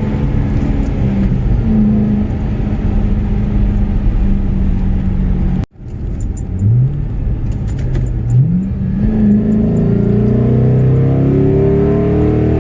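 Car engine pulling at steady revs, broken by a sudden brief dropout just over halfway, then revving up in two quick rising sweeps and climbing steadily as the car accelerates.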